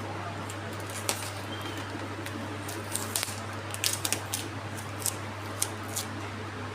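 Packaging being handled while a parcel is packed: a scattering of short sharp clicks and crinkles, over a steady low hum.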